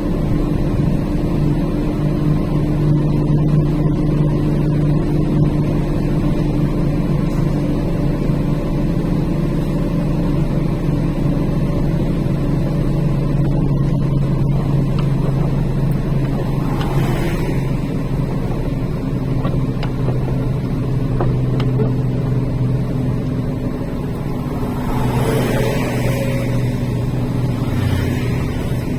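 Truck's diesel engine droning steadily, heard from inside the cab as it descends a mountain grade, with a brief hiss about two-thirds of the way in and a longer one near the end.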